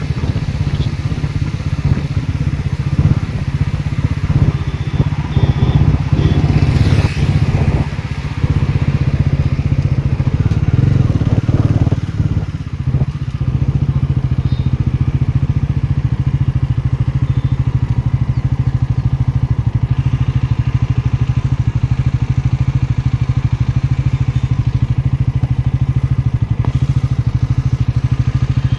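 Motorcycle engine running. The sound is uneven with a few knocks over the first half, then settles into a steady drone.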